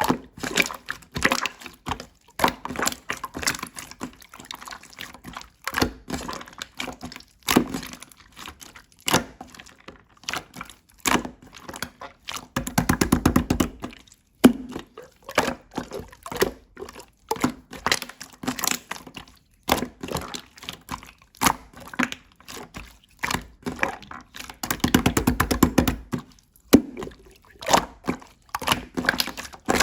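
Slime being squished and poked by hand, giving a constant run of wet clicks and pops. Twice, about thirteen and twenty-five seconds in, comes a second or so of fast, even crackling.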